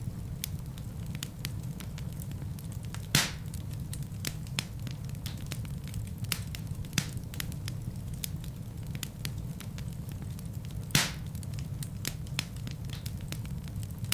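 Wood fire burning in a fireplace: a steady low roar with frequent small crackles, and two louder pops, one about three seconds in and one near eleven seconds.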